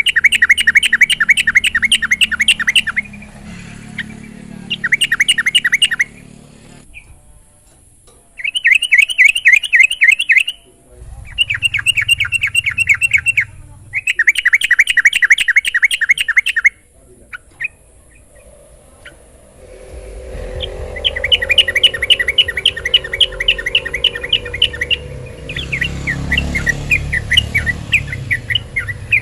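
Yellow-vented bulbul (trucukan) calling in repeated bursts of fast, rattling chirps, each burst lasting a couple of seconds with short pauses between, the last two running longer. A low rumble runs beneath the later bursts.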